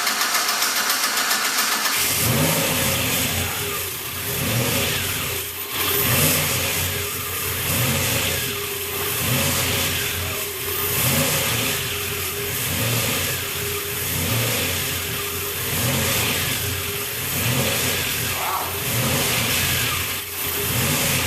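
Chevrolet Cavalier cold start after sitting six to eight months: the starter cranks briefly, the engine catches about two seconds in, then settles into an uneven idle that swells and dips every second or so. It is running rich on old gas.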